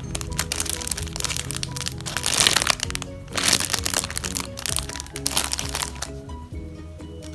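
Crinkling, crackling handling noise from squishy foam toys being squeezed, loudest in two bursts about two and five seconds in, over background music.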